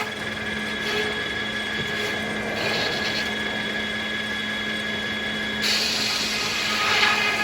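Circular sawmill running steadily, its spinning blade and drive giving a constant hum, with spells of louder hissing where the blade cuts through willow log: briefly about a second in, again around three seconds in, and most strongly for the last couple of seconds.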